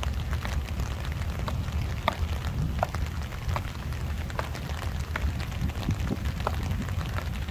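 Rain falling, with scattered light drop ticks at irregular intervals over a steady low rumble.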